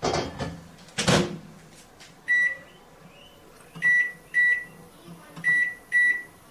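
Microwave oven door closing with a rattle and a thump, then the keypad beeping five times as the time is set: one beep, then two pairs.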